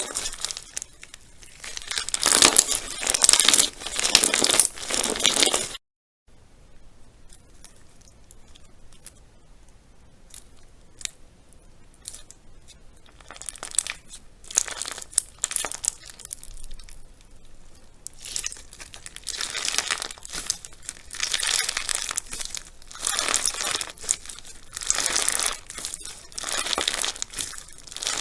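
Slime being squeezed and stretched by hand, crackling and popping in repeated bursts. The sound drops out briefly about six seconds in, gives sparse clicks for a while, and then grows into loud crackling bursts again.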